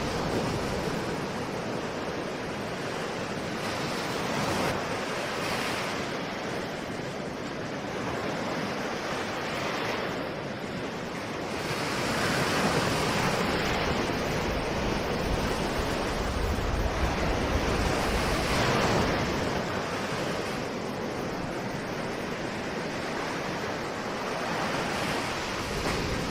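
Ocean surf: waves breaking and washing in one after another, a continuous rush of water that swells and eases every few seconds. It is loudest through the middle.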